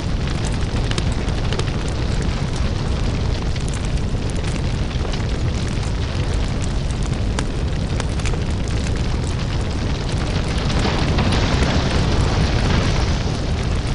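Crackling lava: a steady deep rumble with frequent small crackles and pops, and a louder hissing surge about eleven seconds in that lasts a couple of seconds.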